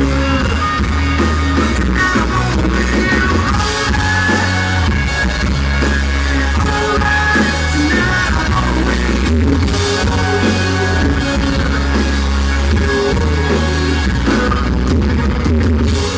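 A country rock band playing live, with electric guitar, bass and drum kit, loud and steady, in a rough, poor-quality audience recording.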